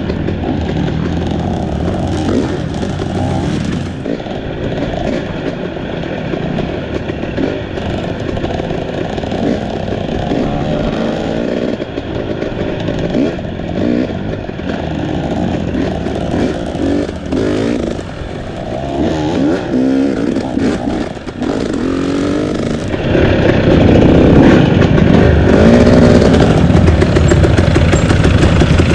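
Trail motorcycle engine revving up and down in pitch as it is ridden, growing louder about three quarters of the way through.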